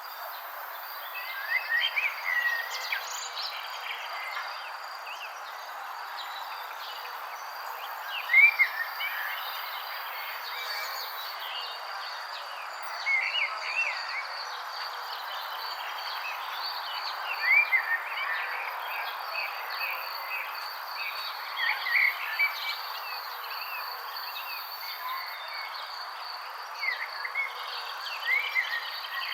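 Outdoor ambience of birds singing short whistled phrases every four or five seconds over a steady insect-like drone and a continuous hiss.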